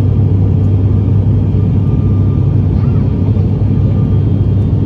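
Binter ATR 72's twin turboprop engines and propellers heard from inside the passenger cabin: a steady low drone that holds the same pitch and level throughout.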